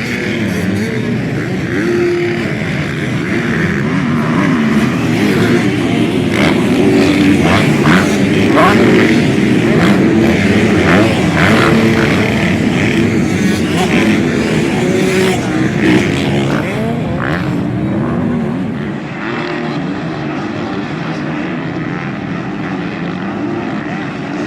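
Several motocross bikes racing, their engines revving up and down with many overlapping pitches. The sound builds to its loudest in the middle and eases off after about eighteen seconds.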